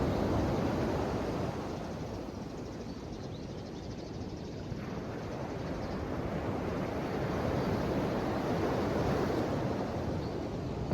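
Ocean waves washing on the shore: one wave's wash fades out about two seconds in, and the next swells up and peaks near the end.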